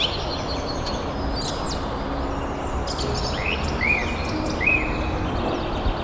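Small birds chirping and calling over steady background noise, with one bird repeating a short arched call about once a second in the middle.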